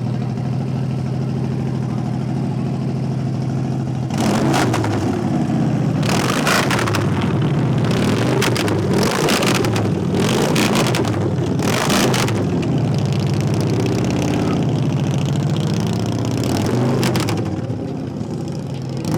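Car engine idling steadily, then revved hard again and again from about four seconds in, its pitch climbing and falling with each blip, before dropping back toward idle near the end.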